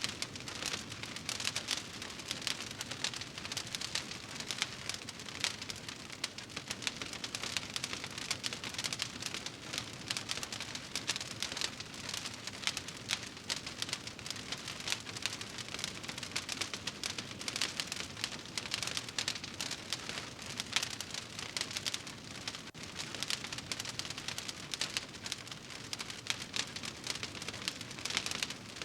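Wood fire crackling in a fireplace: a dense, steady stream of small pops and snaps over a soft hiss.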